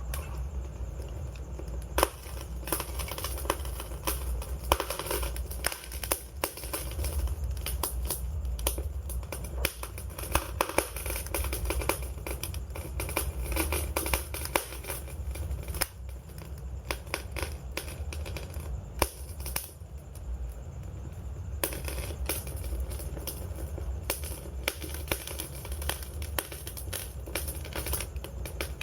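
Wood fire crackling: dense, irregular pops and snaps over a steady low rumble, thinning briefly about two-thirds of the way through.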